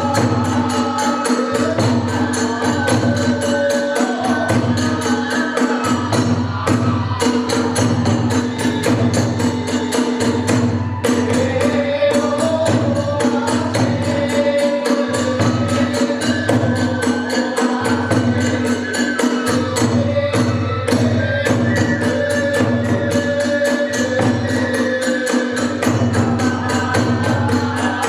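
Hiroshima kagura accompaniment: a steady beat on the large drum with rapid clashing of small hand cymbals, and a melodic line winding above.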